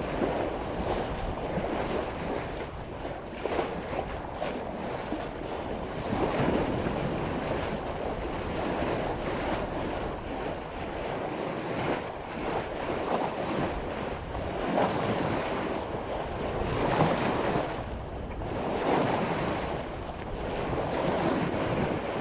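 Water rushing and splashing along a sailboat's bow as the hull cuts through ocean swell at about 5 knots, swelling and easing every few seconds with the waves, with wind buffeting the microphone.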